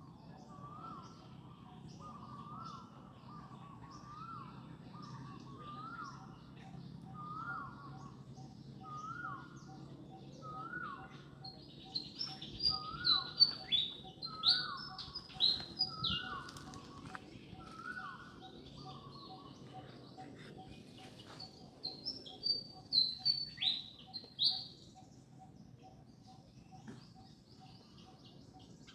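Birds calling: a mid-pitched call repeated about once a second, with loud, shrill, high chirps in two clusters, one from about 12 to 16 seconds in and another from about 22 to 25 seconds in.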